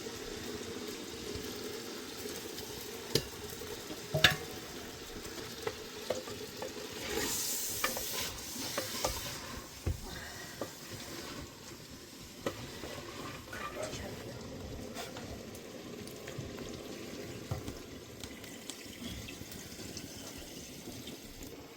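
Food frying in a pot, a steady sizzle with a utensil stirring and scattered sharp clicks of it against the pot. The sizzle swells briefly about seven to nine seconds in.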